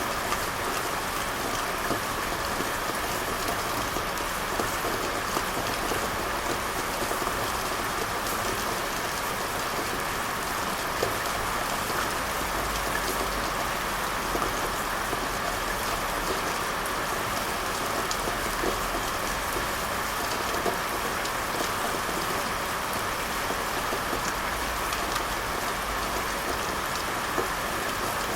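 Steady rain falling, an even patter with many small drop ticks and no change in intensity.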